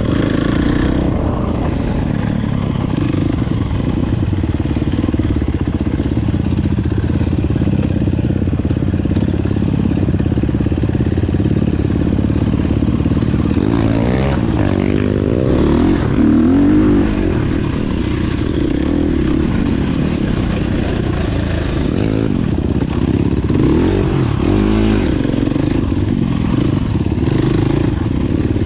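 Dirt bike engine running under way, the throttle opening and closing so its pitch rises and falls, most clearly about halfway through and again near the end.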